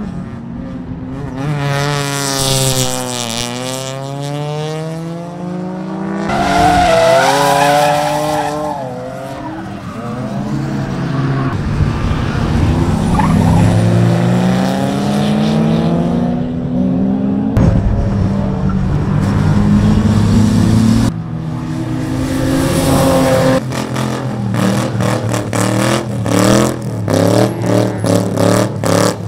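Cars' engines revving hard as they drive past on a race circuit, the pitch climbing and dropping with each gear and corner. Near the end an engine revs in sharp, repeated stabs during a tyre-smoking burnout.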